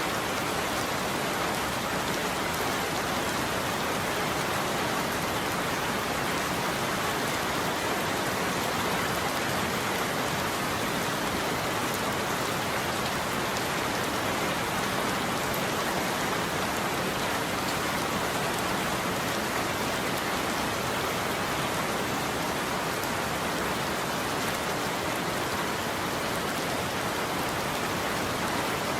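Steady heavy rain falling on a roof, an even unbroken patter with no thunder.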